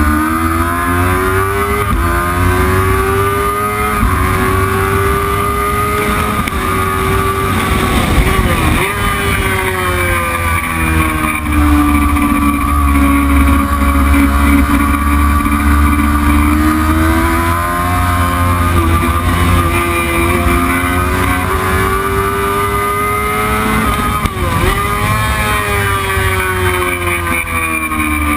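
Racing motorcycle engine running hard at high revs, its pitch rising and falling with throttle and gear changes. The pitch drops sharply twice, about eight and twenty-four seconds in.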